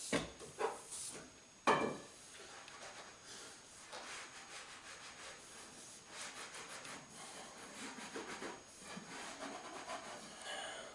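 Parts being handled on a workbench: a few sharp knocks in the first two seconds, then steady uneven rubbing and scraping.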